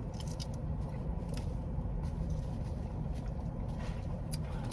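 Steady low rumble of a car idling with the air conditioning running, heard inside the cabin. Several short clicks and crackles come over it.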